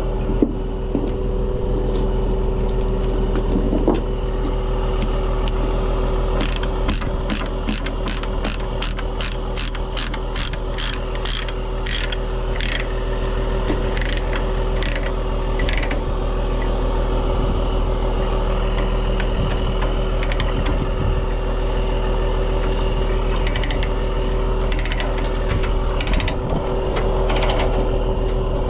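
Truck engine running with a steady drone, with a run of regular clicks about twice a second through the middle and a few more near the end.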